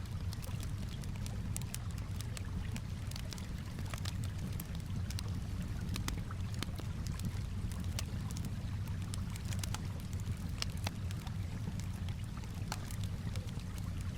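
Campfire crackling, with many irregular sharp pops, over a steady low wash of calm water lapping.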